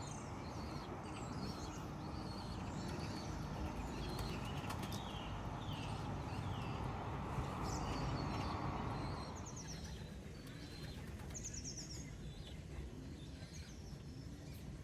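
Small birds chirping and trilling, with pigeons cooing softly around the loft. A steady rushing noise runs underneath and drops away about nine seconds in.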